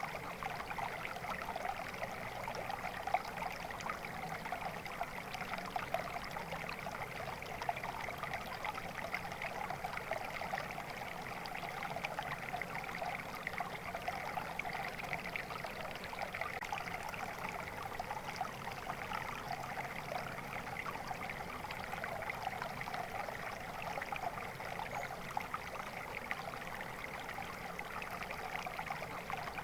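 Water flowing and trickling steadily in a stream, a continuous babble of small splashes.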